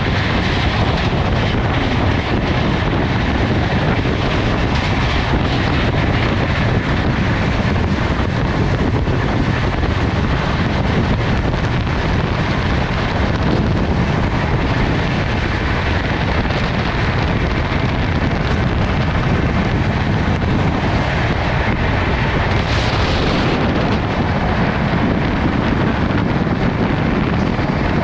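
Express passenger train running at high speed: a steady loud rush of wind and wheel-on-rail rumble, with a brief brighter hiss about 23 seconds in.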